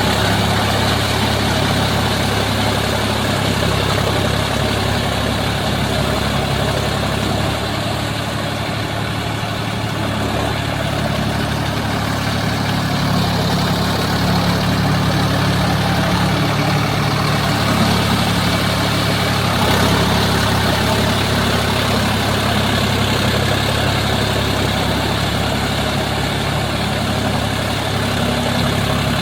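Sonalika Tiger DI 50 tractor's diesel engine running steadily while ploughing, a continuous low engine hum whose pitch shifts slightly partway through.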